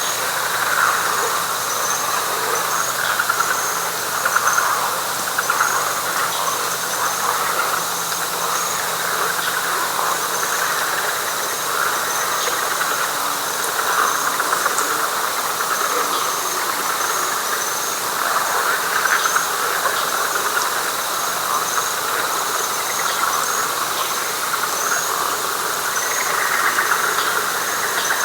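Night chorus of frogs and insects in a wet pine flatwoods: a dense frog chorus that swells and fades every few seconds, under a steady high insect trill and a faster, higher pulsing insect call.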